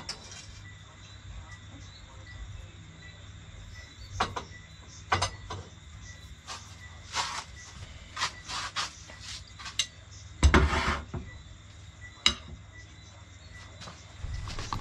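Kitchen clatter: cutlery and dishes knocking and scraping in short scattered bursts, with one louder thump about ten and a half seconds in.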